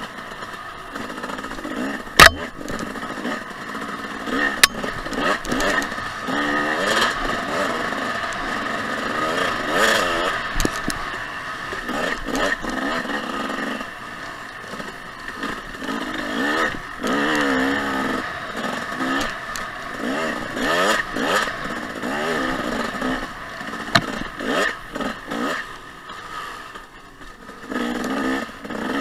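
2014 Husqvarna TC 250 two-stroke dirt bike engine revving up and down as it rides a trail, its pitch rising and falling with the throttle. Two sharp knocks sound a couple of seconds in, and the engine drops off briefly near the end before picking up again.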